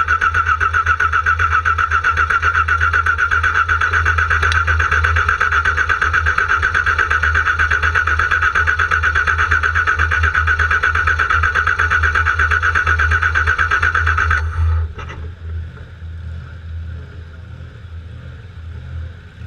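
Car engine being cranked by its starter motor: a steady starter whine with fast, even compression pulses for about fourteen seconds, never catching before the starter is released. This is a no-start condition. A quieter low rumble remains afterward.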